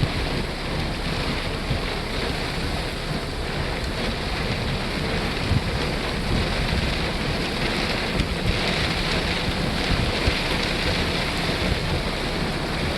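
Heavy rain and strong gusting wind of a severe thunderstorm, a steady dense hiss of rain with the wind's irregular low rumble buffeting the microphone.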